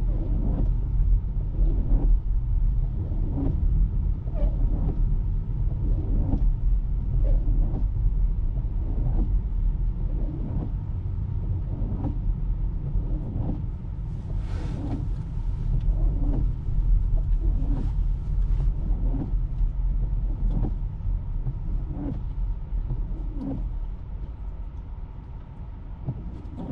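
Low road and tyre rumble inside a Tesla's cabin while driving on snow-covered streets, with a short knock or swish about once a second and a brief hiss about halfway through.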